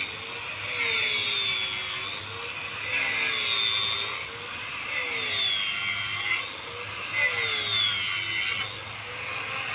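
Electric tile-cutting saw running steadily, with four louder stretches of a second or two each as the blade cuts into tile, the motor pitch wavering and dipping under the load.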